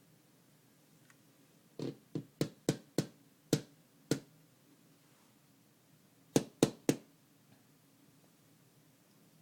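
A series of sharp knocks or taps: seven uneven ones over about two seconds, then, after a pause, three quick ones in a row.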